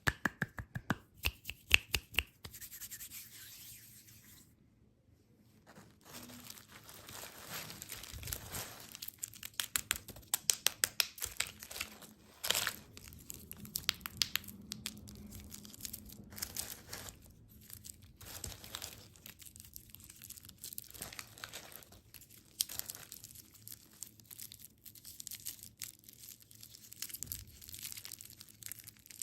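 Candy wrappers and packaging being crinkled and torn open, in dense runs of sharp close crackles with a short quiet gap about four and a half seconds in.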